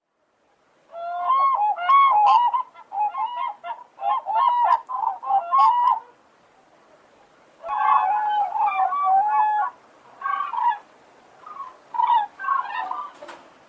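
Common cranes trumpeting: loud, repeated bugling calls from more than one bird, starting about a second in. A pause follows, then a second loud burst, and fainter calls near the end.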